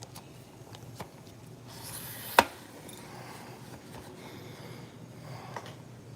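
Light handling noises: a few faint clicks, a brief rustling hiss ending in one sharp knock about two and a half seconds in, then more small clicks.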